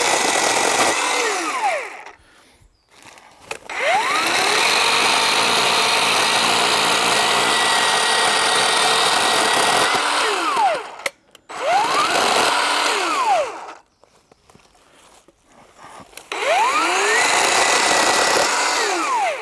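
Black+Decker GKC3630L20 36 V cordless electric chainsaw run in four bursts, cutting a log. Each burst begins with a rising whine as the motor spins up and ends with a falling whine as it winds down. The longest burst lasts about seven seconds, and there are short quiet gaps between them.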